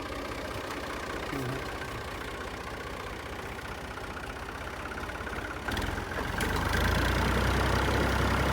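Tractor's diesel engine running at idle with a steady low pulse, then growing louder about six seconds in.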